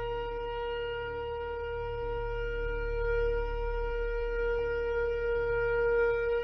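Shofar sounding one long, steady blast on a single held note, which cuts off near the end.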